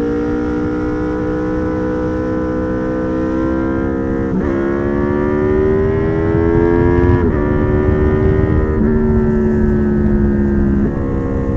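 Honda VFR800's V4 engine through a custom exhaust, running under load. Its note climbs slowly and drops sharply at gear changes about four and seven seconds in, with smaller steps later on.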